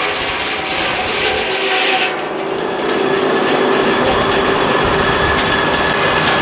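A sawmill blade cutting through a log with a loud rasping hiss. The cut ends abruptly about two seconds in, and the mill runs on with a steady mechanical whine.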